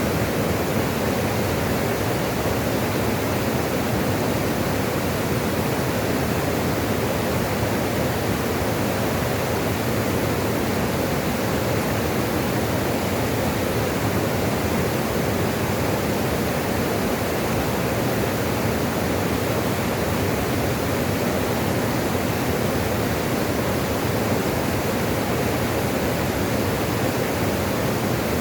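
Running water rushing steadily and evenly, a continuous unchanging noise without drips or splashes standing out.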